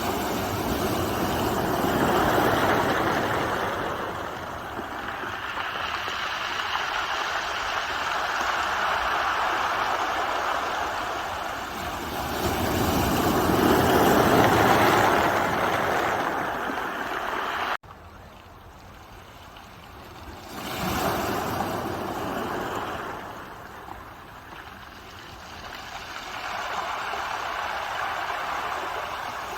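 Ocean waves breaking and washing in, a rushing noise that swells and ebbs every few seconds. A little past halfway the sound drops suddenly quieter, then the waves build again.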